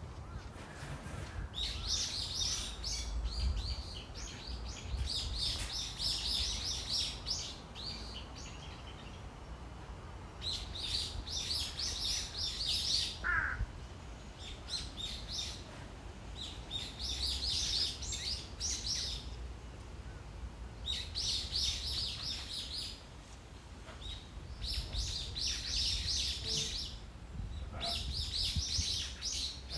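Small songbirds chirping in repeated bursts of quick, high twittering, each burst lasting one to three seconds, with a low rumble underneath.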